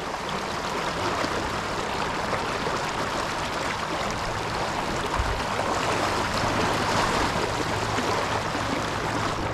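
Kenai River water rushing steadily, an even wash of flowing-river noise; the river is running high and fast. A faint low hum joins in about halfway through.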